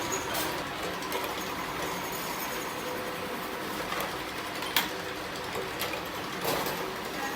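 A machine running steadily, with a few sharp clicks in the second half.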